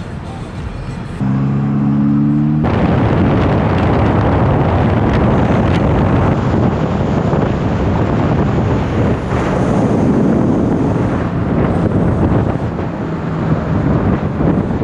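A steady pitched hum for about a second and a half, then from nearly three seconds in a loud, even rush of wind on the microphone over the noise of a moving vehicle.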